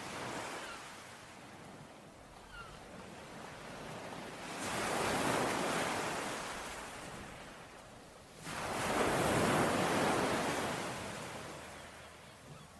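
Sea waves breaking on a shore: two larger waves come in sharply, about four and a half and eight and a half seconds in, each washing back out slowly over several seconds.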